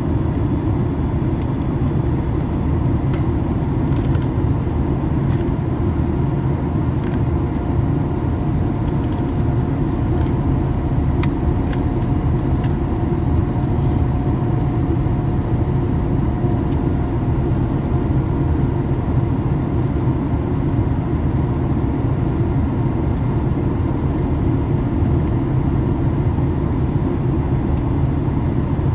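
Steady cabin roar inside a Boeing 737 MAX 8 in flight: airflow and the CFM LEAP-1B turbofan engines, mostly deep, with a faint steady whine above it.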